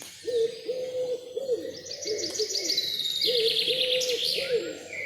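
An owl hooting over and over in short, low hoots, with songbirds singing higher trills and chirps over it, busiest in the middle.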